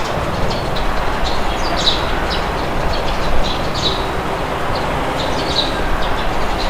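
Steady wind rushing, with small birds chirping in short, high calls scattered throughout.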